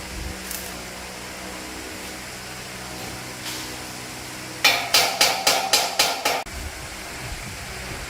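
A hammer striking metal: about seven quick blows at roughly four a second, each with a short ringing, stopping abruptly; a steady low workshop hum runs underneath.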